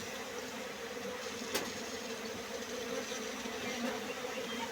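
Honeybees buzzing in a steady, dense hum, with one sharp click about one and a half seconds in.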